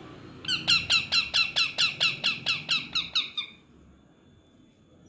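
A parrot giving a rapid run of about a dozen short, shrill calls, about four a second, stopping about three and a half seconds in.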